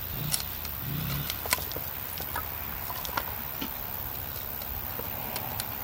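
Wood campfire crackling: scattered sharp pops and snaps at irregular intervals over a steady low rumble.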